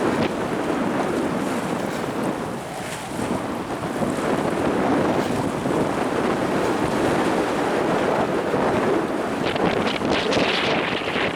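Strong typhoon wind buffeting the microphone, with sea waves breaking. The gusts ease a little about two to three seconds in, then pick up again.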